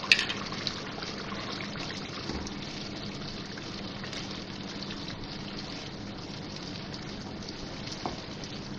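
Onion-and-spice curry masala sizzling steadily in oil in a wok while yogurt is stirred in with a wooden spoon, the bhunai stage of frying the masala with yogurt added a little at a time. A sharp knock comes just after the start.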